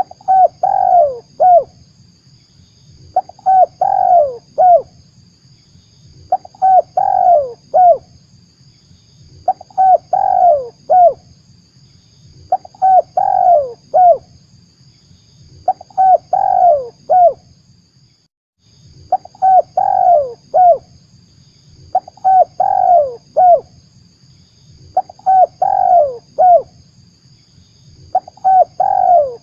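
Spotted dove (tekukur) cooing, a short phrase of several notes repeated about every three seconds, played as a lure call to attract the bird. A faint steady hiss and low hum run underneath.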